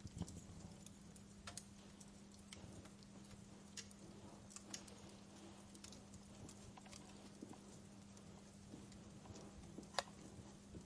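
Wood fire in a fireplace crackling: a few scattered sharp pops and snaps over a faint hiss, the loudest pop near the end, with a steady low hum underneath.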